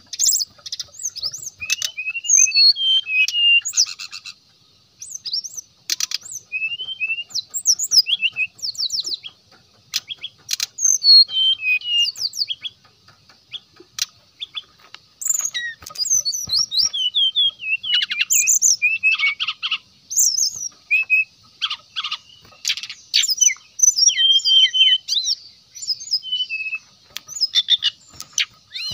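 Brown-chested jungle flycatcher singing bursts of rapid, varied whistled notes and slurs, broken by short pauses, over a faint steady high hiss.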